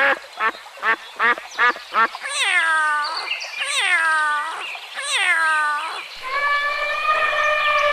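A duck quacking in a quick run of short calls, followed by three long calls that each fall in pitch and then one long, held call from another farm animal.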